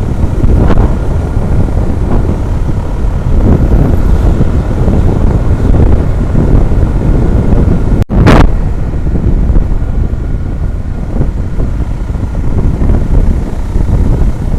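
Loud wind buffeting on the microphone and road rumble from an action camera riding on a moving MAN TGS truck, with a brief dropout about eight seconds in.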